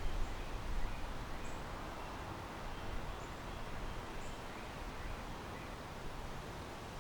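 Backyard ambience: a steady hiss of wind and rustling leaves, with a low wind rumble on the microphone fading in the first second. A small bird gives four short, high chirps spread over the first few seconds.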